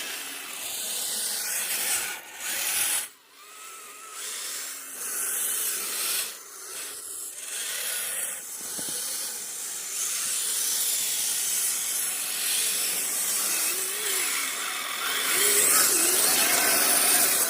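Small brushed 380 electric motor and gears of an RC snowcat whining as it is driven in bursts, its tracks churning through fresh snow. It eases off briefly a few times and runs hardest near the end.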